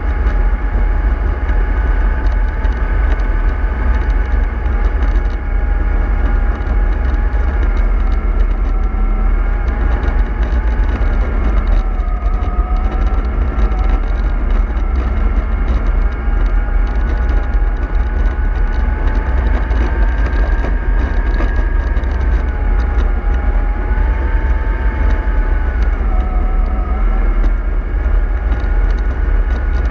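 Remote-control model bus driving. It makes a steady whine that drifts up and down in pitch with its speed, dipping briefly twice, over a constant low rumble.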